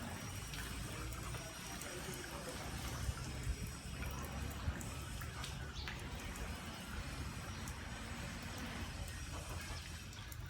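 Water trickling and splashing as a motorcycle is washed, with a few small knocks about three to five seconds in.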